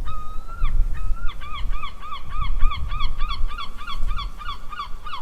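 Cheetah chirping: first a couple of longer held calls, then a rapid, even run of short high chirps, about three a second. A low rumble runs underneath.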